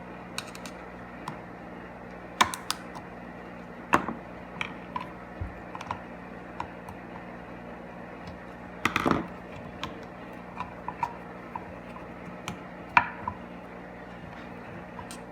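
Scattered light clicks and taps of small switch parts and tools being handled during disassembly, with a short clatter about nine seconds in, over a steady low hum.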